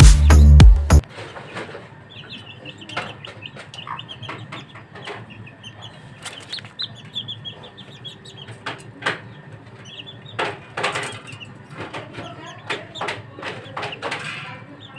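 Parrot chicks' rapid, high chattering calls, with many short clicks and taps throughout, after background music cuts off about a second in.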